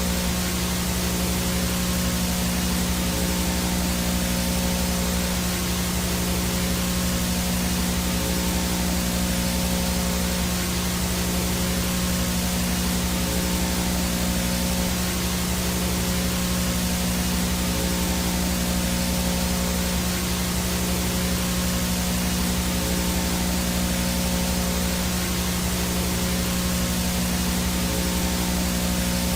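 VHS static noise: a steady, unbroken hiss across the whole range, with a constant buzzing hum underneath and a faint high steady whine.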